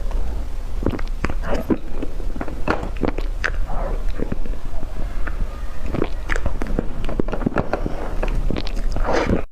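Close-miked eating sounds: a continuous run of irregular, crisp crunches and wet clicks from biting and chewing.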